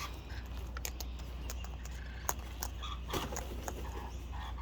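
Scattered faint clicks and taps from wild white cockatoos feeding on seed, over a steady low hum.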